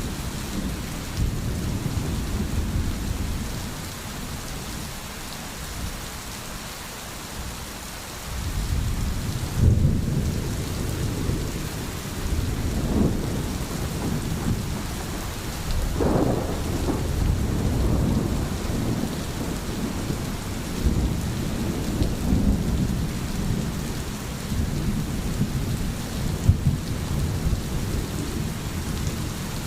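Steady rain with low rolling thunder. The rumble eases for a few seconds, then swells again about eight seconds in and keeps surging.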